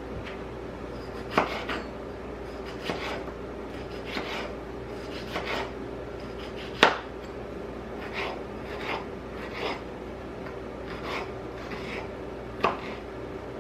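Kitchen knife cutting vegetables on a cutting board: irregular slicing strokes about once a second, with a few sharper knocks of the blade on the board.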